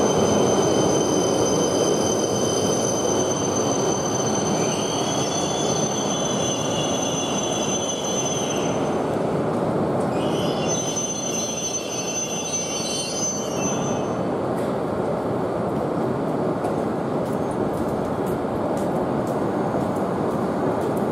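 Shinkansen train pulling into the platform and braking, with a steady rolling rumble and a high-pitched brake squeal. The squeal drops out about nine seconds in, comes back briefly, then stops. Light clicks follow near the end as the train comes to rest.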